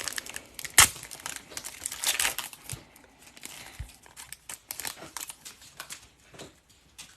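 Wrapper of a hockey trading card pack being torn open and crinkled, loudest in the first couple of seconds, then quieter rustling as the cards are handled.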